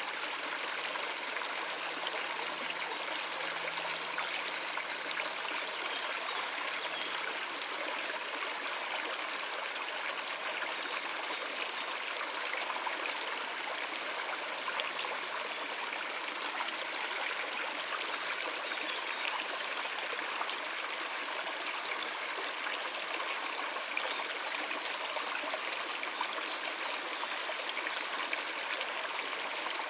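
Shallow stream water running and trickling over rocks in a steady, unbroken rush.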